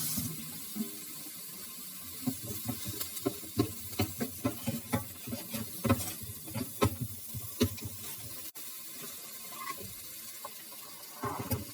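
Kitchen work: utensils and dishes knocking and clicking in quick, irregular succession, busiest in the middle and easing off near the end.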